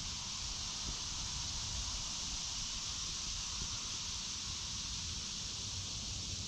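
Steady woodland ambience: an even, high hiss from a babbling creek and a chorus of insects (locusts), over a low, unsteady rumble of wind on the microphone.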